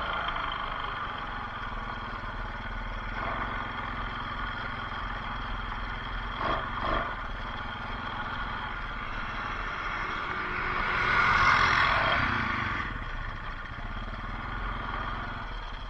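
Off-road bike's engine running steadily, swelling louder for a couple of seconds about eleven seconds in. Two short knocks come about six and a half and seven seconds in.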